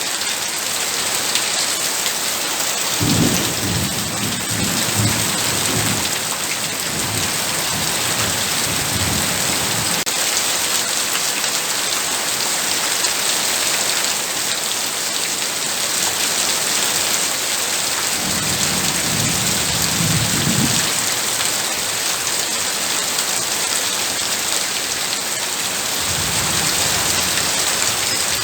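Heavy rain falling steadily. Low rolls of thunder rumble through it, the first starting about three seconds in and lasting several seconds, another about two-thirds of the way through, and a shorter one near the end.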